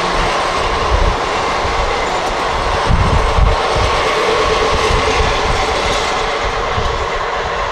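A passenger train running past on the track, with a steady, loud rumble and wheel-on-rail noise throughout, and a few low thumps about three seconds in.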